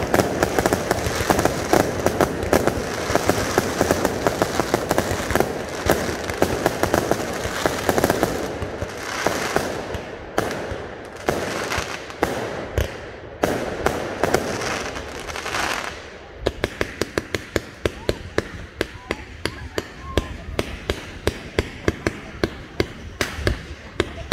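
Fireworks display: a dense barrage of shell bursts and crackling stars. About two-thirds of the way through it thins to a quick, even string of sharp pops.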